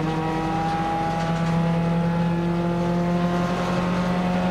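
Nissan March one-make race car's engine heard from inside the cabin, pulling hard through a gear with its note climbing slowly and steadily.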